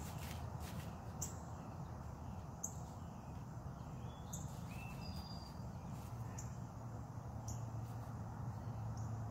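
Birds chirping: short high chirps every second or two, with a few lower whistled notes near the middle, over a steady low hum.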